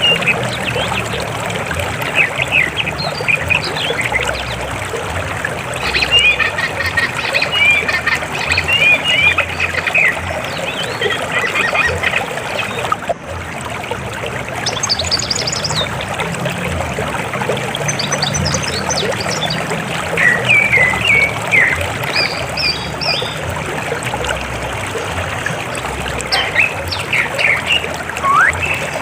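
River water flowing steadily over rocks, with small birds chirping and trilling over it throughout. The sound dips briefly about halfway through.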